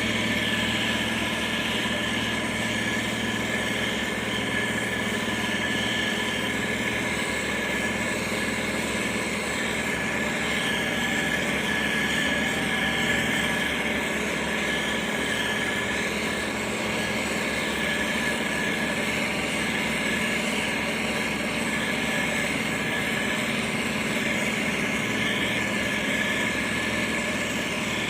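Diesel engines of heavy road-building machines, a motor grader and road roller, running steadily. A constant engine hum sits under a steady high tone.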